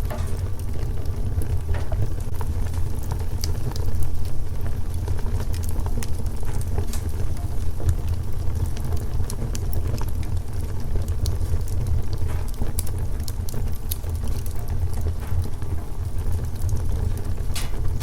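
Wood fire crackling: scattered sharp pops and clicks over a steady low rumble.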